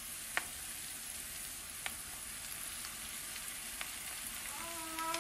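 Onion, garlic and spice masala frying in oil in a pan, sizzling steadily as chopped spinach is added, with a few sharp clicks. Near the end a held tone starts, rising slowly in pitch.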